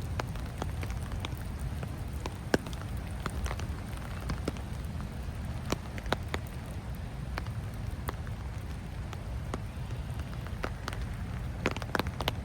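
Rain falling, with scattered single drops ticking sharply at irregular moments over a steady low rumble.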